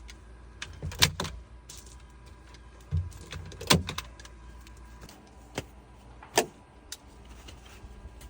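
A handful of sharp, short knocks and clacks of hard objects, about six spread over eight seconds, the loudest near the start and in the middle, over a steady low rumble.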